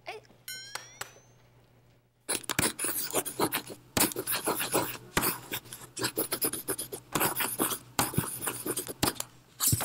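Pen or pencil scratching hard across paper in quick, irregular strokes, loud and exaggerated, starting about two seconds in. Before it comes a brief rising flourish of tones.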